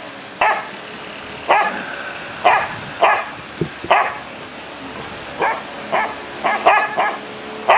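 A dog barking repeatedly in short sharp barks, about one a second, quickening into a quicker run of barks near the end, over a steady hiss.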